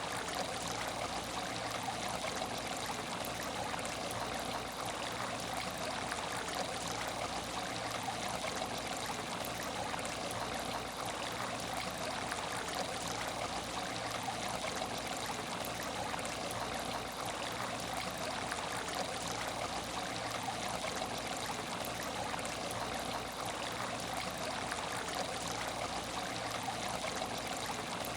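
Water running steadily in an aquarium tank with no fish, a continuous even flow with no breaks.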